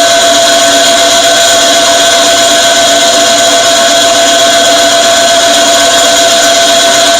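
Drilling machine running an oiled annular cutter through metal under power feed: a steady machine whine with several held tones that doesn't change through the cut.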